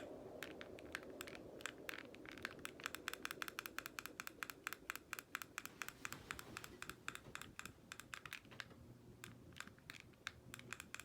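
Rapid clicking of a FanSync handheld remote's buttons pressed over and over, several presses a second with a short pause near the end: the high-and-off button sequence used to put the ceiling fan into reverse.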